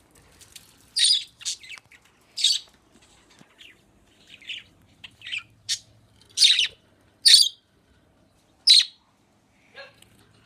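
Pet birds giving short, shrill squawks and chirps, about a dozen separate calls with pauses between them. The loudest come in the second half.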